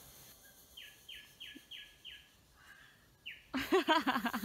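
A bird calling a quick run of short, falling notes, about three a second, then one more note a second later. Near the end a person's voice calls out loudly for about a second.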